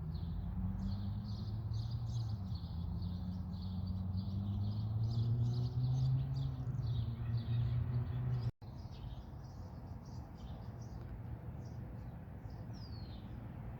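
A small bird chirping over and over, about three short chirps a second, over the low drone of a passing car's engine that grows louder and then cuts off suddenly about eight and a half seconds in.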